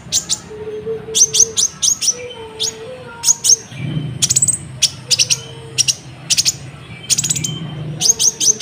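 Natuna kolibri ninja, a sunbird, singing vigorously: quick runs of sharp, high chirps in repeated bursts. A faint low hum runs underneath.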